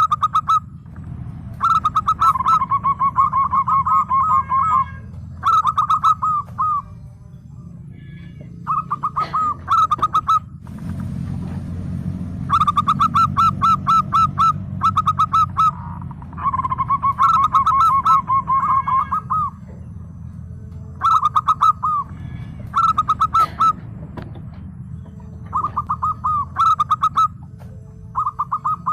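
Zebra dove (perkutut) calling: repeated bursts of quick staccato cooing notes, some runs longer and rolling, with short pauses between. A steady low hum runs underneath.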